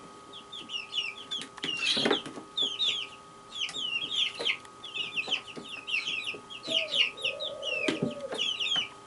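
Birds chirping rapidly in short, quick notes, with a few lower, longer calls about seven and eight seconds in.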